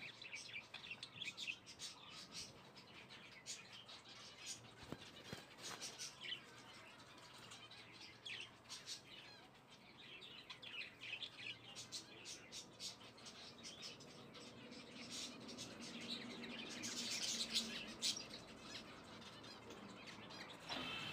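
Faint, scattered high-pitched bird chirps over quiet background noise.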